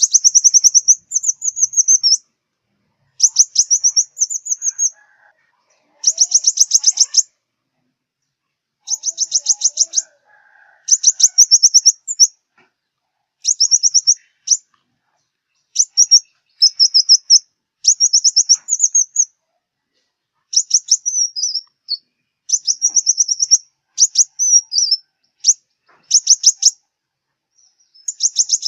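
Sunbird song: a string of short, fast, high-pitched trilled phrases, each one to two seconds long, repeated with brief pauses.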